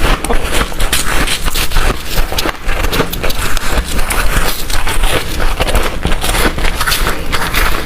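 Freezer frost being bitten and crunched close to the microphone: a dense, loud run of crackling crunches.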